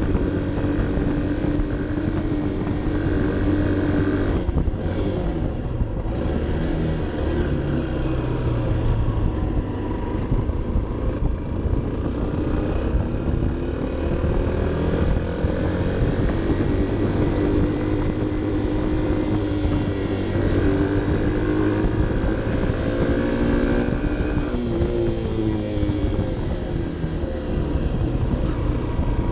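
Honda CB 125 F's small single-cylinder four-stroke engine pulling uphill under load, its revs climbing and dropping several times with throttle and gear changes.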